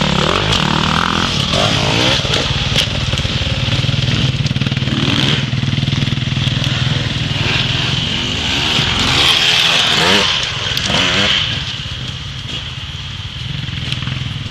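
Dirt bike engine running at low speed, its revs rising and falling again and again as the rider works the throttle.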